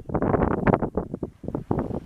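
Wind buffeting the microphone: a rumbling rush that swells and drops in uneven gusts.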